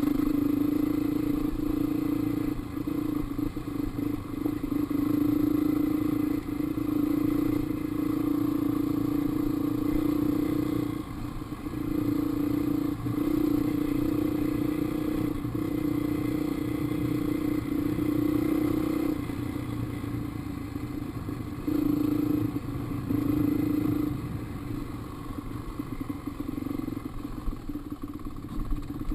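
Dirt bike engine running on the trail, the throttle held open, then eased off and back on several times, for longer spells about two-thirds of the way through and near the end. The rider believes its valves are going bad.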